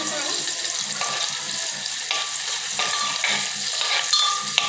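Onions frying in hot oil in a pressure cooker: a steady sizzle with a few sharp clicks of stirring. The onions are being fried toward golden brown.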